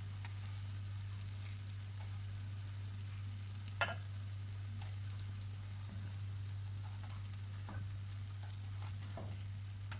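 Egg omelettes sizzling faintly in oil in the wells of a kuzhi paniyaram (appe) pan, with light clicks of a utensil against the pan as they are lifted out, one sharper click about four seconds in. A steady low hum runs underneath.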